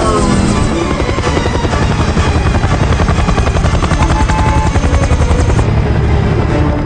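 Helicopter in flight, its rotor beating rapidly over a steady engine drone, with a falling whine right at the start.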